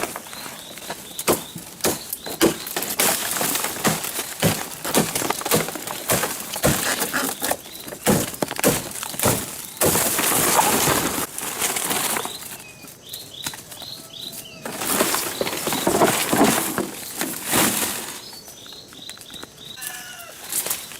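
Repeated crisp crunching and rustling of dry rice stalks being cut and handled, with short bursts of bird chirps twice in the quieter stretches.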